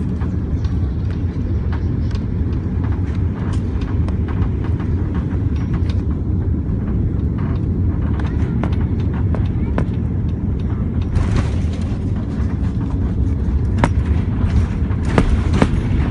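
Airliner cabin noise inside an Airbus A330-300 during landing: a steady deep rumble with many small rattles and knocks. About eleven seconds in, a hiss joins it and it grows slightly louder.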